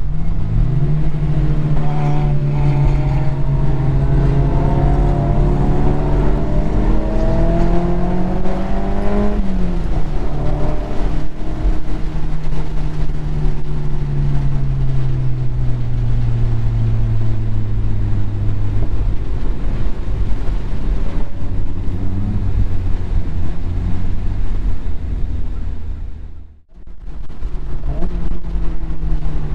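Mazda MX-5's four-cylinder engine under hard load on track, its note climbing for several seconds and dropping sharply about nine seconds in at a gear change or lift, then rising and easing off again, over heavy wind and road rumble on an open-top car. Near the end the sound briefly drops away almost to nothing.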